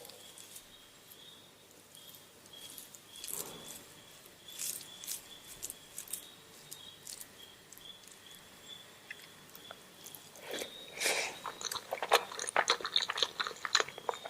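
Close-miked eating sounds of omelette and rice: biting and chewing with scattered wet clicks and smacks, sparse at first, then coming thick and faster over the last few seconds.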